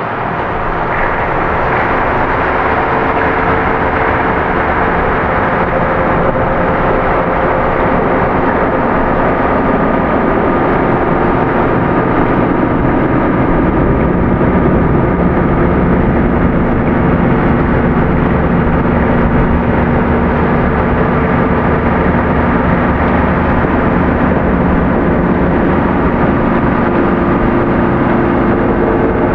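Dark ambient drone music: a dense, rumbling wash of noise with a few long held low tones that shift slowly. It swells in over the first second or two.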